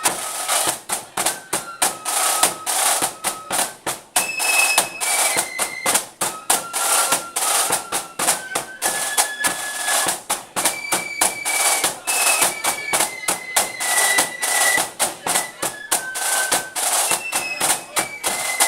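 Marching flute band playing: a high flute melody moving in steps over quick, steady drum beats.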